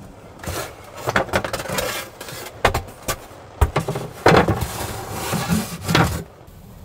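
Irregular rubbing and scraping of objects being handled, with several sharp knocks and clicks, stopping a little before the end.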